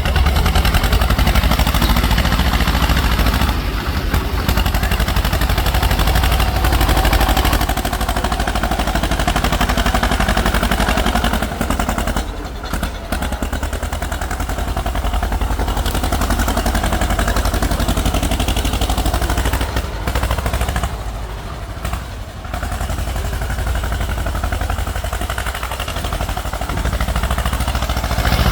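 Tractor engine running hard close by, a rapid clattering beat that eases off briefly twice.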